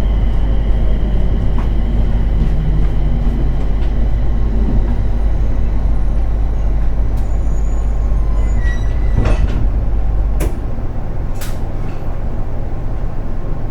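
Interior running noise of a JR East 701 series electric train: a steady low rumble. About ten seconds in the deepest part of the rumble drops away as the train comes to a stop, with a few sharp clicks around that moment.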